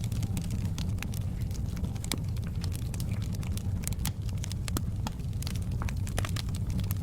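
Wood fire burning in a fireplace: a steady low rumble of the flames with irregular sharp crackles and pops of the burning wood, several a second.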